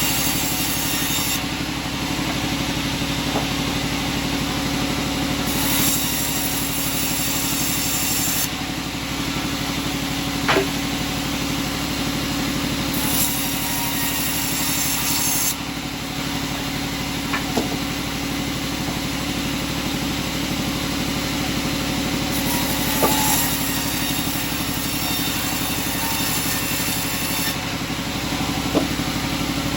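Sawmill machinery running steadily, with a few sharp knocks of wood scattered through it.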